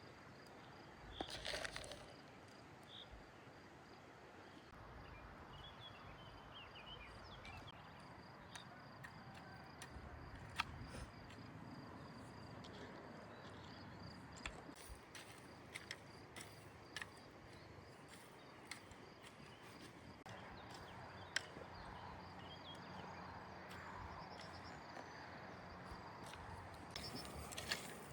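Faint outdoor ambience: a low steady hiss with a brief louder rustle about a second in and a handful of sharp clicks scattered through it.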